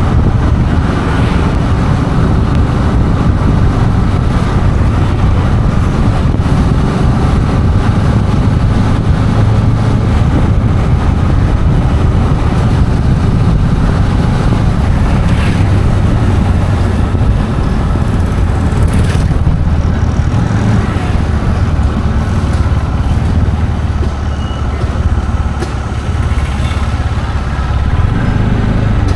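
Road traffic noise: vehicle engines and tyres running loud and steady, mostly low in pitch.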